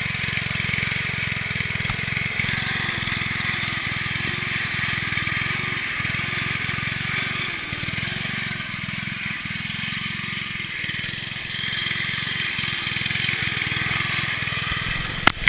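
MTD riding lawn mower's small engine running steadily as the mower is driven, with a couple of sharp knocks right at the end.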